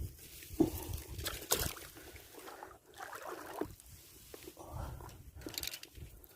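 Water sloshing and splashing at the surface, with irregular short knocks.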